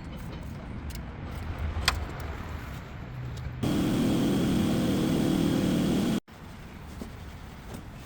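GMC Tahoe engine running; the owner is showing its valve lifter noise. A little over three and a half seconds in, the sound jumps abruptly louder for about two and a half seconds, then cuts off suddenly and the lower running sound returns.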